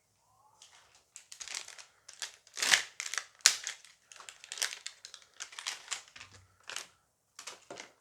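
Foil booster-pack wrapper crinkling and crumpling in the hands as the pack is opened: a run of irregular crackling rustles.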